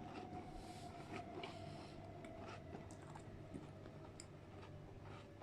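Close-miked eating sounds: a McVitie's digestive biscuit being crunched and chewed with McFlurry ice cream, heard as scattered soft crunches and small clicks. Under them runs a faint steady hum that slowly drops in pitch.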